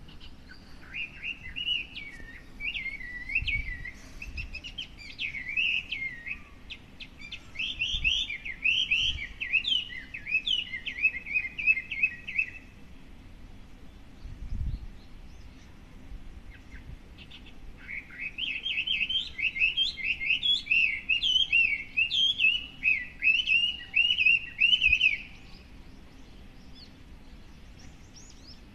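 A songbird, which the uploader takes for a Chinese hwamei, sings long runs of rapid, varied whistled notes. There are two bouts, about twelve seconds and then about seven seconds, with a pause between.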